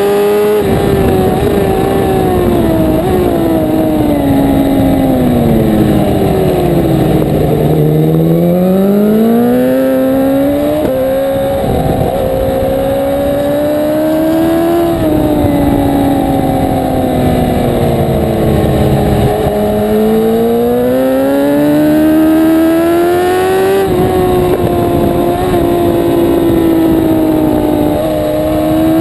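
1000 cc superbike engine racing, its pitch dropping as the bike slows about 5 to 7 seconds in and again near 20 seconds, then climbing back as it accelerates hard.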